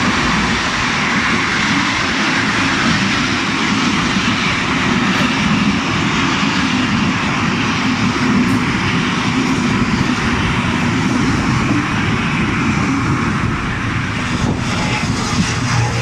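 Freight train hauled by two Czech diesel locomotives, a class 753.7 'Bangle' and a 'Brejlovec', passing close by: a loud, steady rumble with a few faint clicks near the end.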